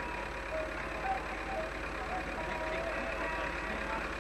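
A vehicle engine running steadily at low revs, with a constant low hum underneath.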